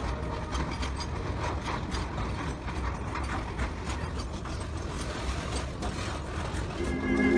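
Loaded freight wagons rolling past close by, their wheels and couplings rattling and clattering in a dense run of clicks over a low rumble. Music comes in near the end.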